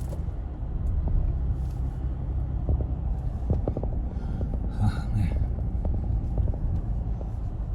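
Steady low road-and-engine rumble heard inside a moving car's cabin, with a few faint ticks.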